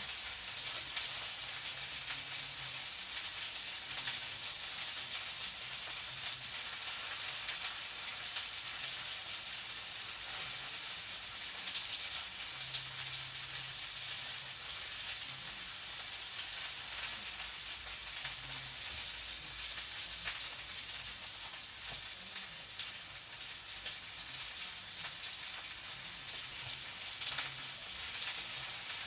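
Food frying in a pan: a steady, dense crackling sizzle.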